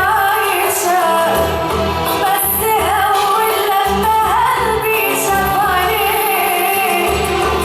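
Oriental-style pop song: a woman's voice singing a wavering melody over a steady bass beat.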